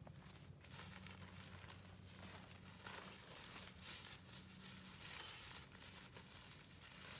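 Near silence: faint outdoor ambience with a few soft, irregular rustles and a low steady hum underneath.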